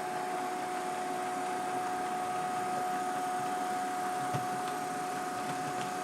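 Model train running on the layout: a steady whine from the locomotive motors over an even rolling hiss, with a few faint clicks about four to five seconds in.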